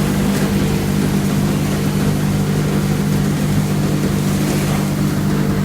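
7.6 kW sawdust extraction blower running steadily and pulling air through the sweeper attachment: a constant motor-and-fan hum over a rushing hiss of air.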